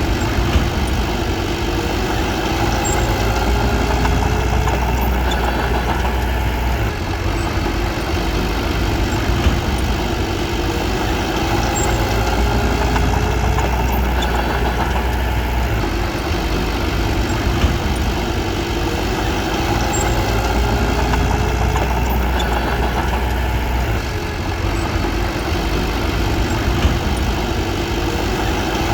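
Bulldozer's diesel engine running steadily, its tone shifting every several seconds, with a few sharp clicks or clanks.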